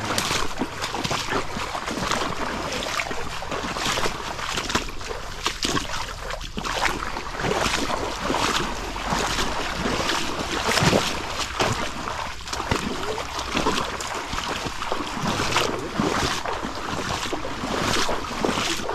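Water splashing and sloshing in a continuous run of small, irregular splashes, with wind noise on the microphone.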